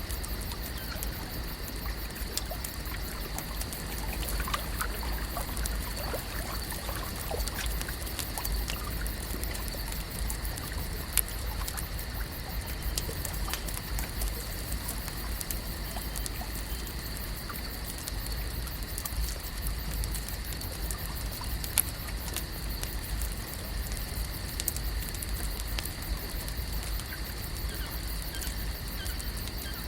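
Lake-shore ambience: water gently trickling and lapping, with scattered small clicks and drips over a steady high-pitched hum and a low rumble. Two sharper clicks stand out, about 11 and 22 seconds in.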